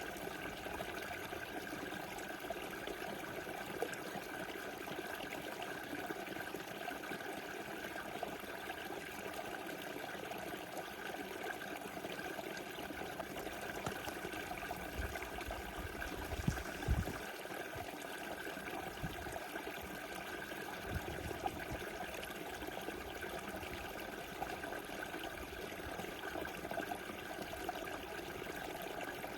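Small river flowing steadily, a continuous rushing and trickling of water. A brief low rumble or thud about halfway through.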